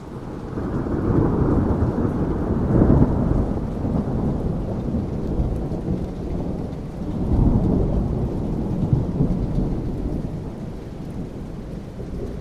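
Rolling thunder with rain. A deep rumble swells about a second in and peaks near three seconds, then a second roll builds around seven seconds and slowly dies away, over a steady hiss of rain.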